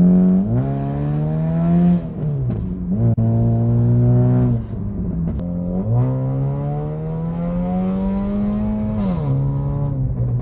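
Car engine being revved three times: the pitch climbs, holds and drops back twice quickly, then makes a longer, slower climb before falling away near the end.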